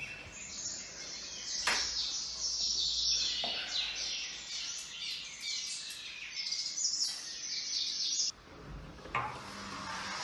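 Many high-pitched bird chirps and twitters overlapping, stopping suddenly about eight seconds in.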